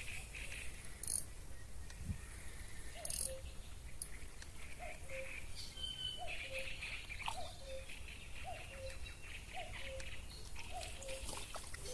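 A bird repeating a short two-note call, a higher note falling to a lower one, about once a second from about three seconds in, over a steady background of other birds or insects chirring. Sharp clicks come near the start.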